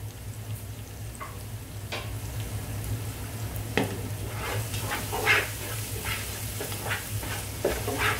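Thick biryani masala sizzling gently in a non-stick pot, with a silicone spatula stirring and scraping through it in repeated strokes from about four seconds in.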